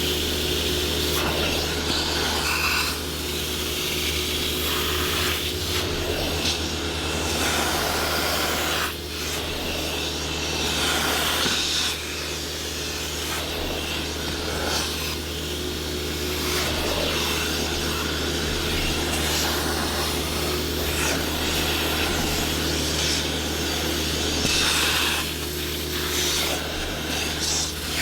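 Interior-detailing equipment with an electric motor humming steadily throughout, overlaid by irregular hissing and scrubbing as upholstery or carpet is worked.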